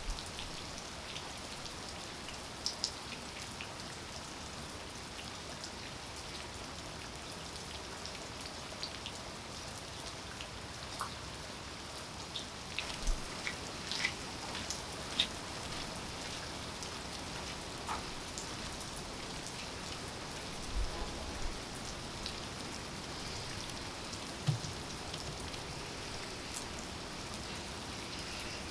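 Steady rainfall, with scattered individual drops landing close by as sharp ticks through the hiss.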